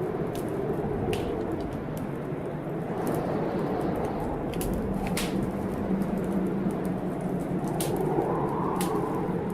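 Wood fire crackling in a fireplace, with several sharp pops scattered through, over a steady rumble of storm outside that swells a little near the end.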